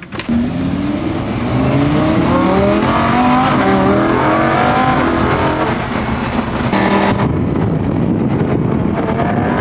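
Car engine accelerating hard, its pitch climbing several times over the first half, then running on at high revs with road noise.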